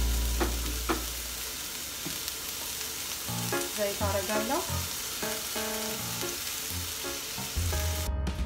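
Chopped red onion sizzling in a hot frying pan, stirred with a wooden spatula, with a couple of scraping knocks in the first second. The hiss cuts off suddenly near the end. Soft background music plays underneath.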